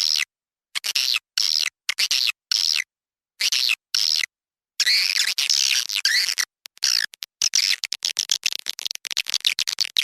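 Edible-nest swiftlet calls from a swiftlet call-sound lure track (suara panggil), the kind played in swiftlet houses to draw the birds in to nest. Short twittering chirps come in separate bursts with silent gaps, then about five seconds in they run together into dense, continuous chattering with rapid clicks.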